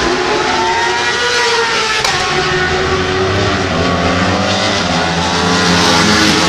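Racing motorcycle engines running at high revs on track, their pitch rising and falling as they accelerate and shift.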